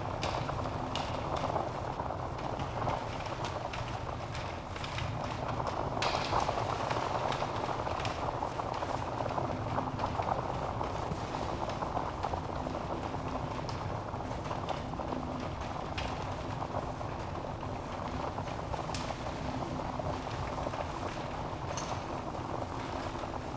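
Wood fire burning in a fireplace: a steady rush of flames with frequent small crackles and pops from the logs.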